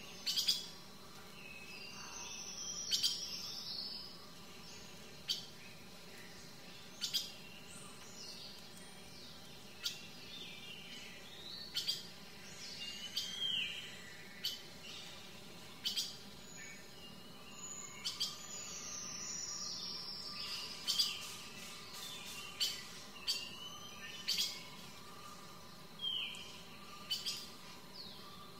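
Birds calling: short sharp chirps every second or two and a few falling whistled calls, over a faint steady background hum.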